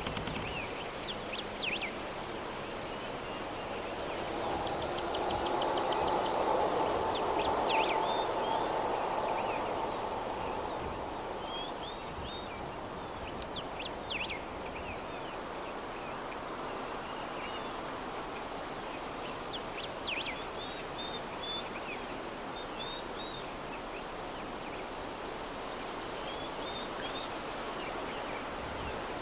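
Steady soft breeze with small birds chirping every few seconds, including one quick trill. The breeze swells louder for a few seconds between about five and ten seconds in.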